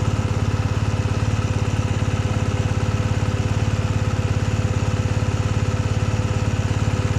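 Motorcycle engine running at steady low revs with an even pulsing beat, unchanging throughout.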